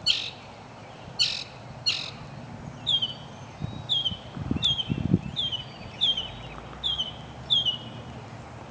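Northern mockingbird singing. It gives three rasping notes in the first two seconds, then switches to a short downward-slurred note repeated over and over, about every two-thirds of a second.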